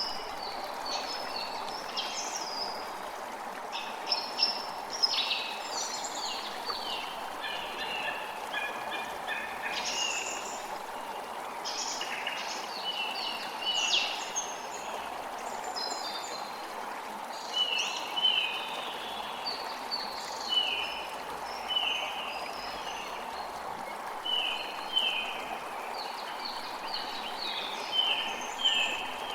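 Creek water running steadily under a chorus of songbirds chirping and singing, with one short call repeated about once a second through the second half.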